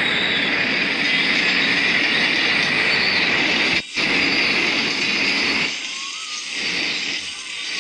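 Philippine National Railways train passing close by, with a loud, steady rush of wheels on the rails. The sound breaks off for an instant just before 4 seconds in, then falls away about 6 seconds in.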